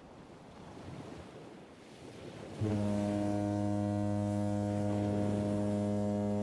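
Water ambience, then about two and a half seconds in a deep ship's horn sounds one long steady blast.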